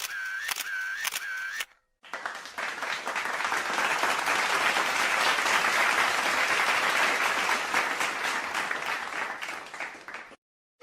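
A rapid run of regular clicks, about four a second, for under two seconds. After a short break comes a dense clatter of many overlapping claps, like applause, lasting about eight seconds and ending abruptly.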